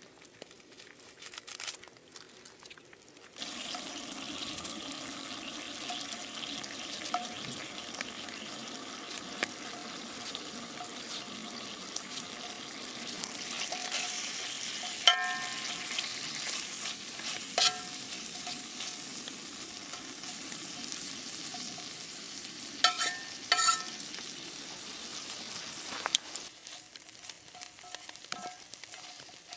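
Food frying in a pan, a steady sizzle that starts about three seconds in, with a few sharp clinks and knocks of a utensil against the pan while it is stirred. The sizzle drops away near the end.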